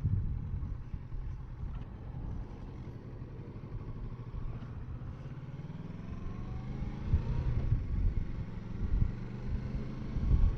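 Kawasaki Versys 650's parallel-twin engine running at low speed, its pitch rising partway through.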